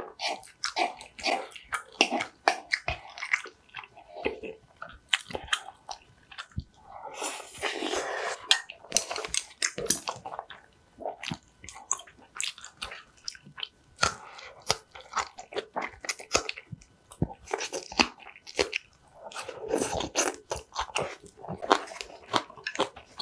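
Close-miked chewing and eating: a woman chewing rice and spicy green onion kimchi, with many irregular wet mouth clicks and crunches and a couple of longer, noisier stretches.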